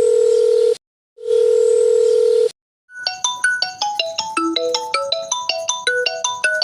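Two long electronic beeps at one steady pitch, each about a second, with a short gap between. After a brief pause comes a quick tinkling melody of short bell-like electronic notes, like a phone ringtone.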